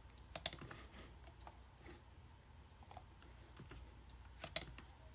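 Faint clicks of computer input as the model maps are stepped through: a pair about half a second in, a single one near three seconds, and another pair about four and a half seconds in, over a low steady hum.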